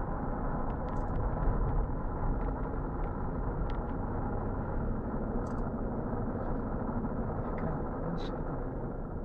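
Steady car engine and road noise inside a moving car, picked up by a dashcam's muffled microphone, with a few faint clicks.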